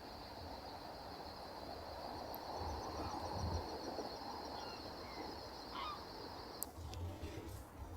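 Waterside bird ambience: faint, scattered calls of ducks and gulls over a steady outdoor hiss and a thin high whine. The whine stops abruptly about six and a half seconds in, and a few sharp clicks follow.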